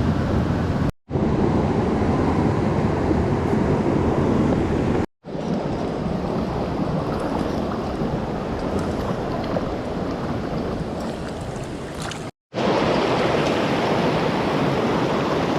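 Loud, steady rushing of a swollen mountain stream running high after rain. It is broken three times by brief total silences where the footage cuts.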